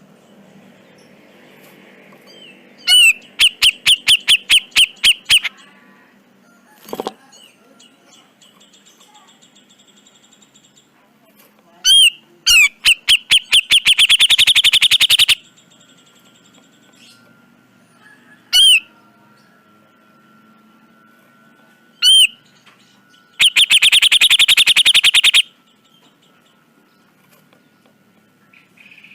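Grey-cheeked bulbul (cucak jenggot) giving three loud bursts of rapid, harsh rattling calls, each a fast train of repeated notes, with single sharp notes between the bursts.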